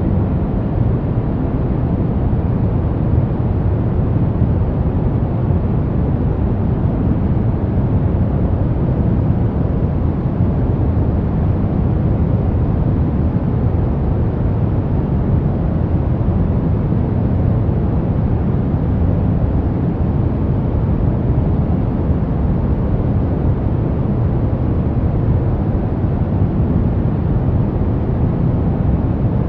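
Steady pink noise: a constant, even rush with most of its weight in the low end, unchanging throughout.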